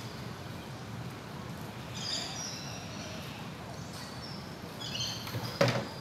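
Short high chirps from small songbirds, once about two seconds in and again about five seconds in, over a steady outdoor background hum. A loud thump comes just before the end.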